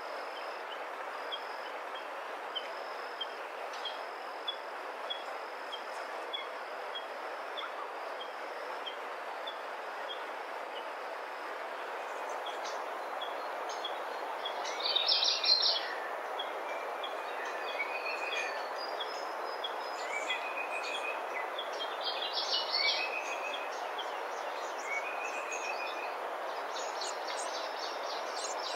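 Birds calling over a steady background hiss: a run of short, evenly spaced high chirps, then from about twelve seconds in louder trilled bursts and repeated short falling whistles.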